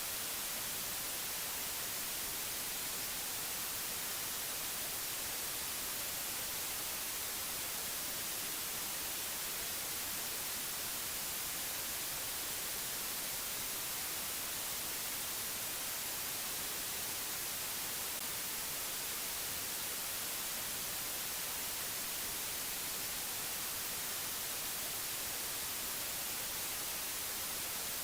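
Steady static-like hiss, even and unchanging, strongest in the high range.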